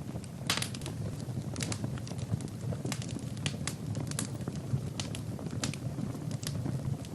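Wood fire burning in a fireplace: logs crackling and popping in irregular sharp snaps over a steady low rumble of flame.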